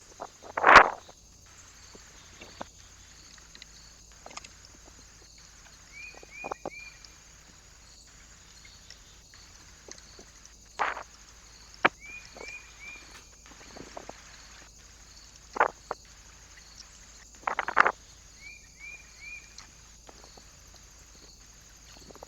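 Knocks and brief rustling bursts from birds at a feeder perch, with a short three-note chirp heard three times, about six seconds apart.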